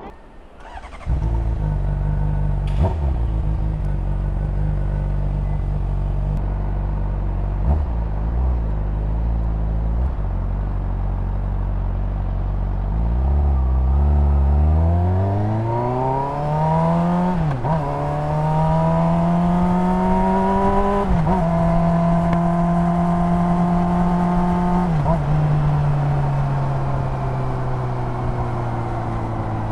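Honda CBR600RR inline-four engine and exhaust, coming in loud about a second in and running steadily, then accelerating with a rising pitch broken by two brief dips at gear changes, and settling to a steady lower pitch near the end.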